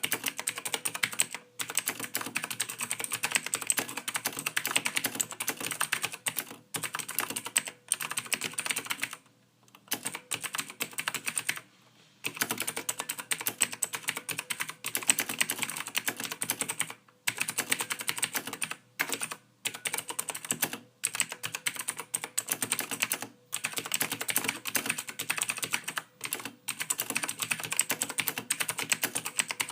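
Soft typing on a computer keyboard: rapid keystrokes in continuous runs, broken by brief pauses of a second or less.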